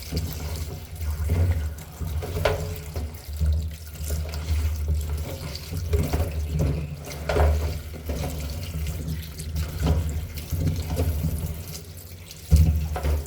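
Tap water running into a kitchen sink while cut vegetable pieces are washed by hand, with irregular splashes.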